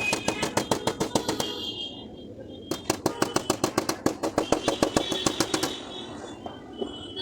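Rapid metal tapping on car door sheet metal, about nine taps a second in two runs, the second starting about a third of the way in. The panel rings with each tap, typical of tapping down the high spots in paintless dent repair.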